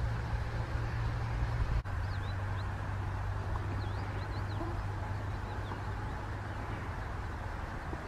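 Short, high bird chirps, a few at a time, over a steady low hum and outdoor background noise. The sound drops out for a moment about two seconds in.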